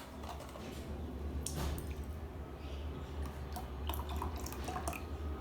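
Scattered light clicks and taps, irregular and short, over a steady low hum.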